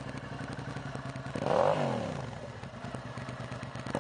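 2004 Suzuki SV650's 650 cc liquid-cooled V-twin idling through its Two Brothers aftermarket exhaust. About a second and a half in, a quick throttle blip sends the revs up and straight back down to idle, and another blip starts right at the end.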